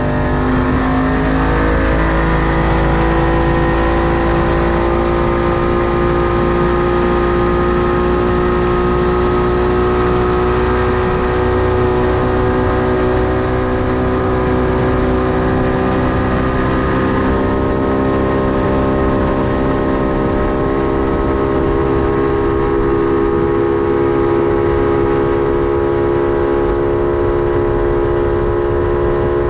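Deck boat engine running under way, climbing in pitch over the first couple of seconds as it speeds up, then holding a steady pitch, over a low rush of noise.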